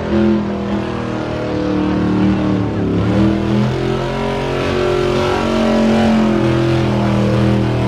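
Burnout car's engine revving hard and held at high revs, its pitch dipping and climbing again about three seconds in.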